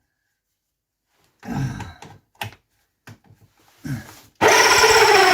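A couple of short grunts and small clicks, then, about four seconds in, a cordless drill's electric motor starts suddenly and runs steadily at speed.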